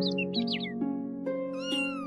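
Kitten mewing in short, high calls, several in quick succession and then a longer one near the end, over background music of plucked notes.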